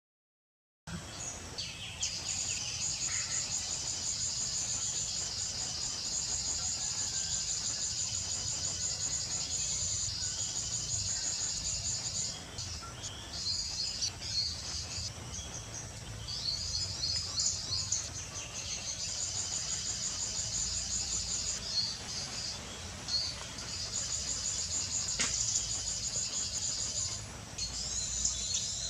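Insects chirping in a dense, pulsing chorus, broken by short pauses, with a few bird chirps in between.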